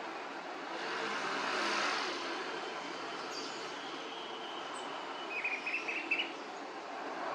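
Steady background noise with a vehicle passing about a second in, then a quick run of about five short bird chirps about five seconds in.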